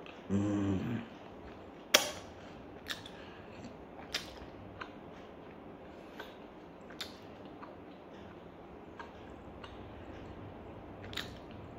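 Pizza being chewed close to the microphone: sharp clicks and smacks from the mouth every second or two, the loudest about two seconds in. There is a short voiced hum near the start.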